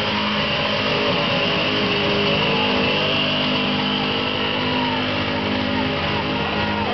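Pulling truck's engine running hard and steady under load as it drags the weight sled, a dense, loud drone that holds level throughout.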